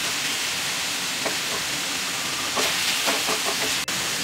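Marinated chicken strips sizzling in hot oil in a frying pan with a steady hiss, stirred with a wooden spatula that scrapes against the pan once about a second in and several times past the middle.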